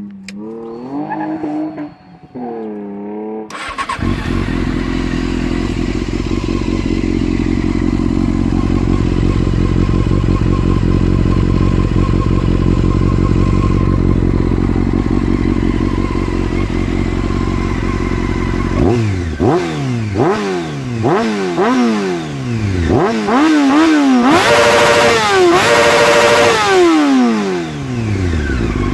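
Honda CBR600 F4i inline-four motorcycle engine, revved briefly and then idling steadily. About two-thirds of the way through it is blipped repeatedly, each rev rising and falling quickly. Near the end it is held at high revs for about two seconds and then drops back to idle.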